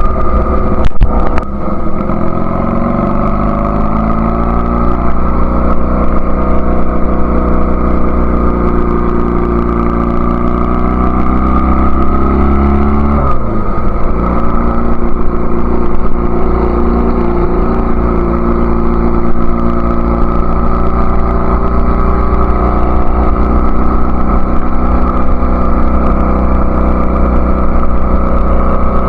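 Honda Rebel CA125's 125 cc parallel-twin engine through an aftermarket BSM/Highway Hawk exhaust, pulling under way with its pitch rising steadily for about ten seconds. Just under halfway it drops sharply, as at an upshift, and then runs fairly steady.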